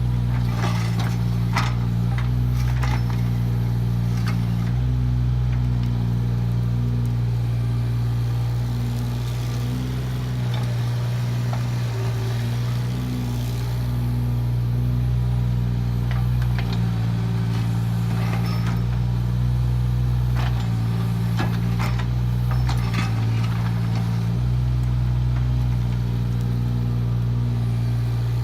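Kubota KX018 mini excavator's diesel engine running steadily, its note shifting several times as the hydraulics take and release load. Scattered short clanks and scrapes come in the first few seconds and again about two-thirds of the way through.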